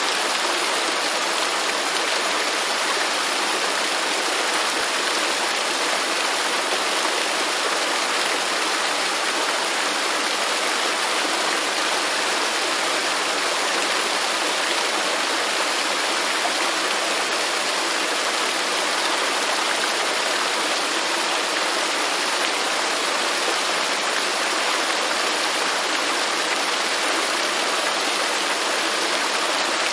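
Waterfall rushing steadily, a constant even roar of falling water with no breaks.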